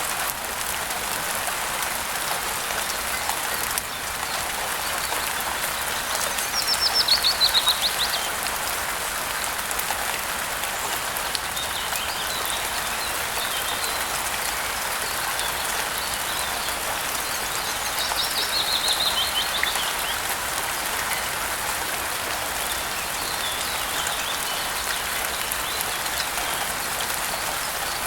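Steady rain falling, with a bird singing over it: a fast trill that drops in pitch, about seven seconds in and again at about eighteen seconds, with fainter chirps in between.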